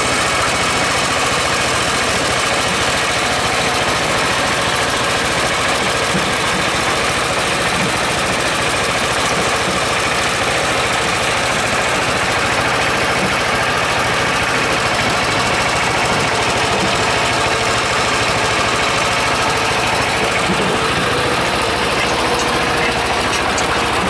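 Small homebuilt tractor's engine running steadily at an even speed, with a rough knocking beat.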